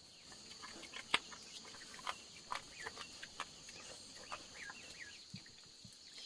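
Steady high-pitched trilling of insects, with scattered faint ticks and short chirps over it.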